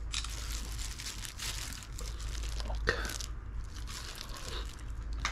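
A person chewing food close to the microphone, with irregular wet crunching and one sharper crack about three seconds in.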